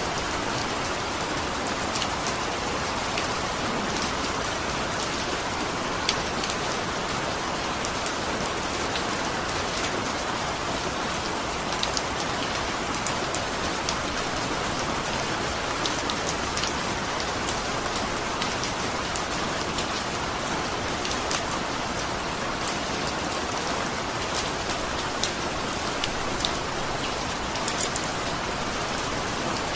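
Steady rain falling, a constant hiss of rainfall with many distinct drops tapping close by.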